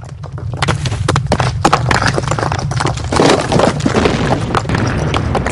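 Earthquake shaking: a deep steady rumble under dense, rapid rattling and clattering of objects and building parts, growing louder about half a second in.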